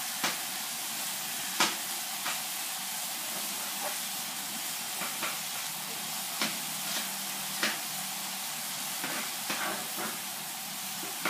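Ground pork and chillies sizzling and bubbling in a thin sauce in a frying pan: a steady hiss broken by sharp pops every second or so.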